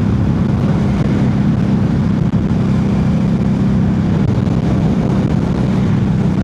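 Harley-Davidson Street 500's V-twin engine running steadily at an even pitch.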